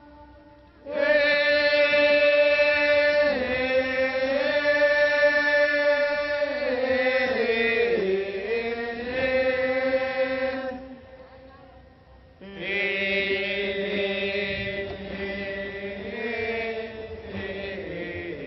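Thai royal barge song (he ruea) chanted by a lead singer: long drawn-out notes that waver and slide slowly, one held phrase from about a second in until about eleven seconds, then after a brief pause another long chanted phrase begins.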